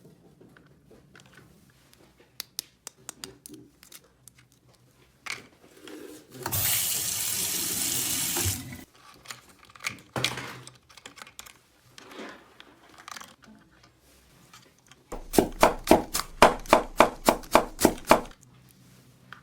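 Light clicks of plastic parts being handled, then a toy kitchen sink's faucet running water for about two seconds. Near the end comes a loud, rapid pulsing, about five a second, for about three seconds.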